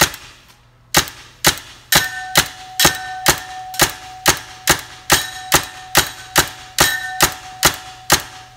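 Tacamo Blizzard Cyborg paintball marker firing: one shot, then after a second's pause steady semi-automatic fire at a little over two shots a second. Many shots are followed by a short metallic ring as the paintballs strike a metal light pole.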